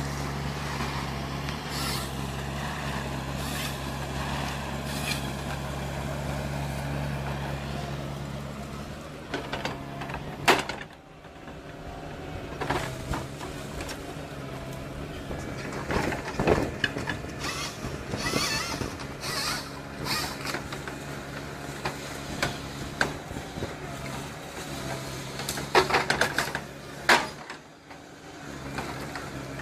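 Wood-processing machinery running: a steady low machine hum for about the first ten seconds, which stops abruptly and gives way to irregular knocks and short hisses.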